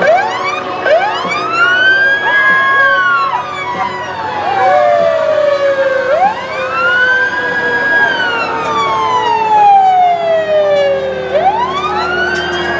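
Fire engine sirens sounding together, most likely a Federal Signal Q2B mechanical siren and a Federal Signal Touchmaster Delta electronic siren. One siren winds up quickly, holds its top pitch, then falls slowly, about every five seconds; the second siren's shorter rising and falling wails overlap it.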